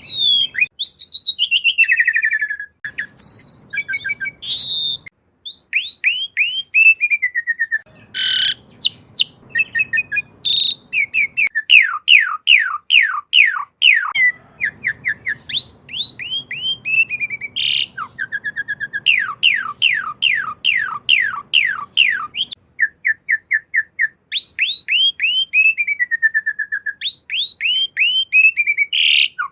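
Asian pied starling (jalak suren) singing a long, varied song of quick whistled notes, many sweeping downward, given in rapid repeated runs with short pauses. Faint running water sits underneath in stretches.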